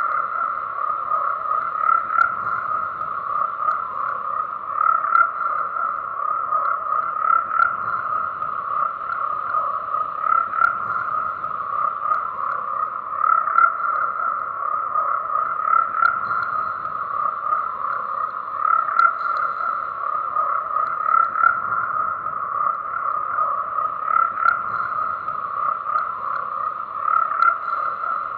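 A chorus of many frogs croaking continuously, their calls overlapping into a dense, steady, pulsing mass of sound.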